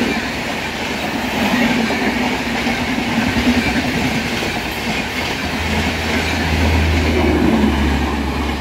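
Express train's passenger coaches running past at speed: a steady rush of wheel and rail noise with clickety-clack over the rail joints. A deeper low rumble joins about two-thirds of the way through.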